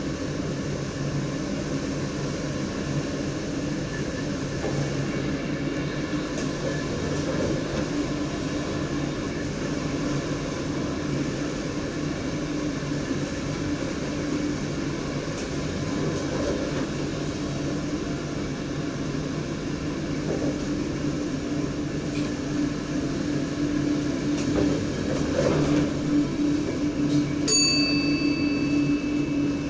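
Electric double-deck train heard from the driver's cab while running at speed: a steady rumble of wheels on rail with a low motor hum. Near the end a clear, high bell-like ringing tone starts and holds.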